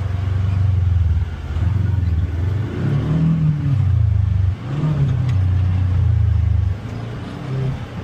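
Polaris Xpedition UTV engine pulling hard on a trail, revving in repeated bursts as the throttle is opened and eased, its pitch rising and falling several times. It drops back briefly about halfway through and eases off near the end.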